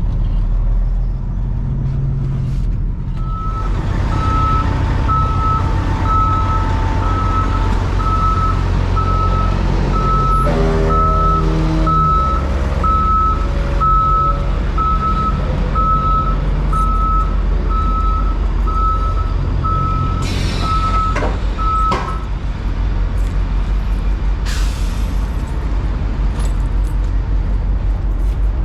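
Semi-truck diesel engine running low and steady while reversing into a loading dock, with a reversing alarm beeping about once a second for some twenty seconds. There is a short hiss of air near the end.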